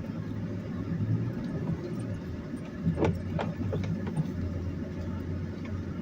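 Car engine running with a steady low hum, with a few short clicks or knocks about halfway through.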